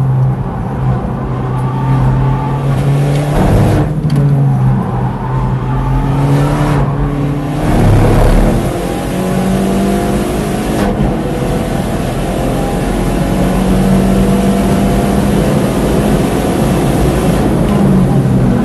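Hyundai i30N's turbocharged 2.0-litre four-cylinder heard from on board under full acceleration. The engine note climbs in pitch through the gears and is cut briefly by upshifts a few times.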